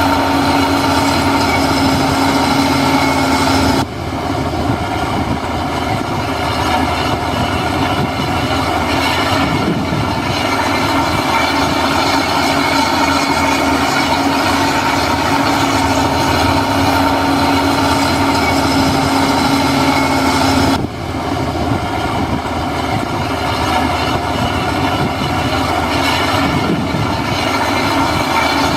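Heavy diesel construction machinery running continuously under work, with a steady whine. The whine and loudness drop away abruptly about four seconds in and again about two-thirds of the way through.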